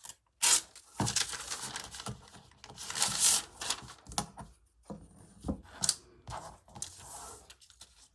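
A large sheet of crisp tracing paper crackling in several noisy strokes as a piece is taken off it.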